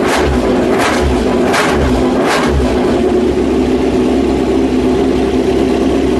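Honda RC213V's 1000cc V4 MotoGP engine revved in short, sharp bursts about every three-quarters of a second, then settling into a steady idle about two and a half seconds in.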